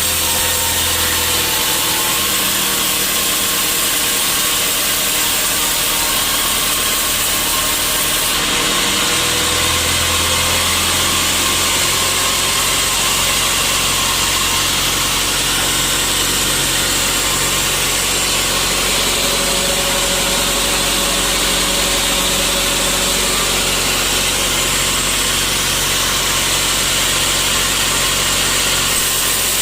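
Sawmill saw running through a teak log: a loud, steady mechanical noise over a low engine hum, with a slight change in tone about eight seconds in.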